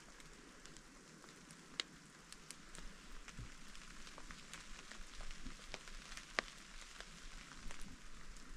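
Steady rain falling, an even hiss scattered with drops ticking close by; two sharper drop hits stand out, one about two seconds in and one past the middle.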